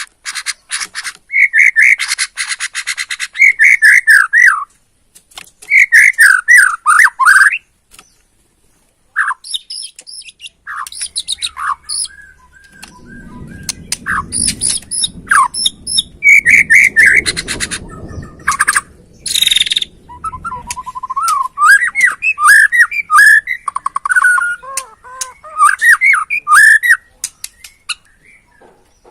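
Bornean white-rumped shama (murai batu Borneo) singing: loud whistled phrases mixed with fast dry rattling chatters, in bursts with short pauses. A low rumble runs under the song through the middle stretch.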